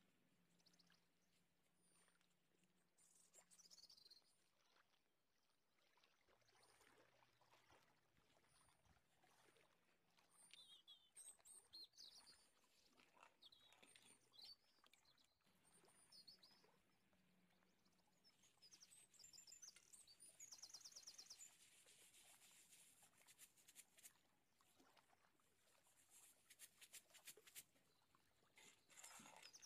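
Near silence, with faint bird chirps and quick trills in the background, busiest in the second half.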